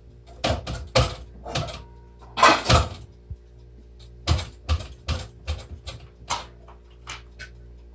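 A quick, irregular run of sharp knocks and clicks, with a pause about halfway, over a steady low hum.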